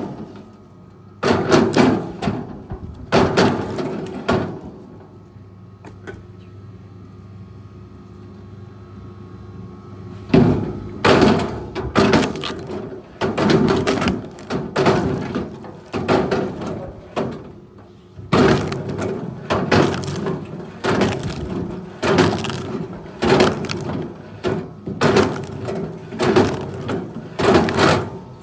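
Wood cracking and splintering in repeated loud bursts over a heavy machine's engine running steadily. After three bursts near the start there is a pause of about six seconds with only the engine, then the cracking resumes about once a second.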